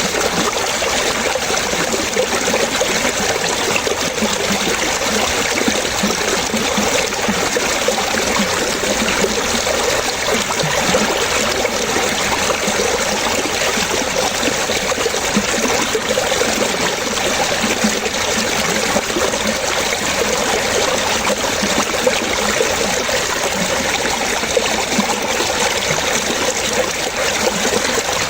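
Running water splashing and trickling steadily, like a small stream flowing over stones, with no pauses or changes.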